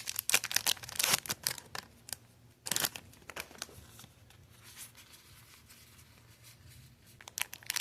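Crinkling and tearing of foil Pokémon trading-card booster-pack wrappers. Dense crackles run through the first two seconds, another burst comes about three seconds in, then a quieter stretch, and the crackles return near the end.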